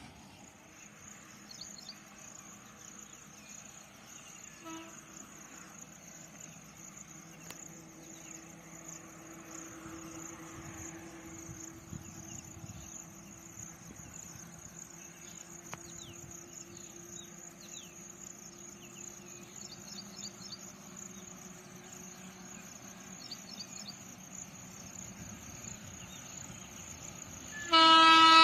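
Insects chirping steadily, high-pitched, under a faint steady hum. Just before the end, a locomotive horn starts blaring loudly.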